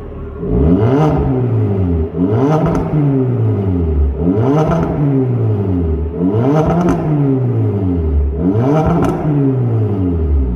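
Hyundai Avante CN7's engine revved through an aftermarket JSR valved exhaust with dual tips, five rev blips about two seconds apart, each climbing and falling back, between steady idle.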